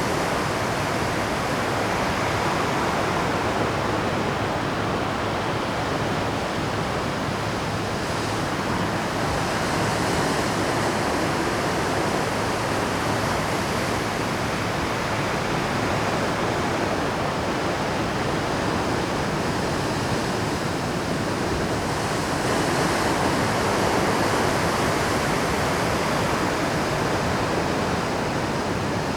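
Pacific surf breaking continuously on a rocky shore, a steady dense roar of rough sea that swells a little about three quarters of the way through.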